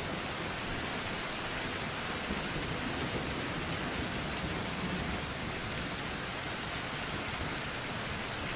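Steady heavy rain falling on a surface, a continuous even hiss with scattered drop ticks and a soft low rumble underneath.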